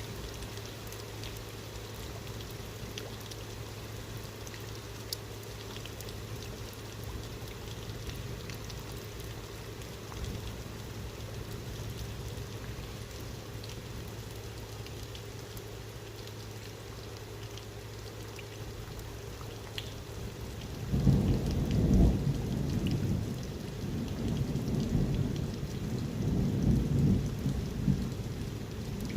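Steady rain with scattered drop ticks, then about three-quarters of the way through a long, low rumble of thunder breaks in, loudest at its start and rolling on in waves to the end.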